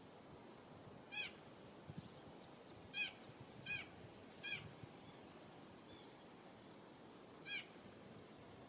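A songbird giving five short calls spaced irregularly, each a quick down-curving note with several overtones.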